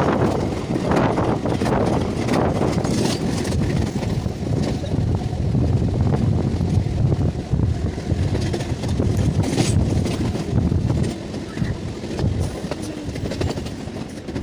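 A moving train running with a steady low rumble, and wind buffeting the microphone.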